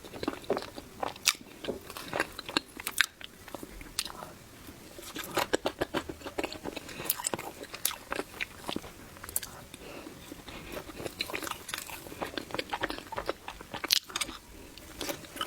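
Close-up eating sounds of someone chewing soft cake: a run of wet mouth clicks and smacks in quick clusters.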